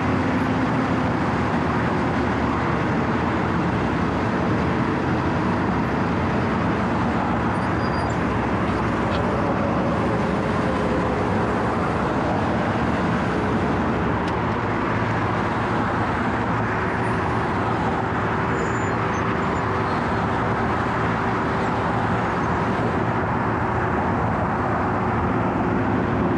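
Asphalt milling machine's diesel engine running steadily, a continuous even drone with a few faint held tones over it.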